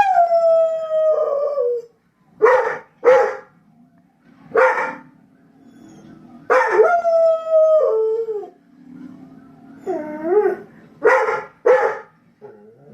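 Dog howling: a long howl at the start that falls in pitch, another about six and a half seconds in, and a wavering one near the ten-second mark, with short barks or yips between them.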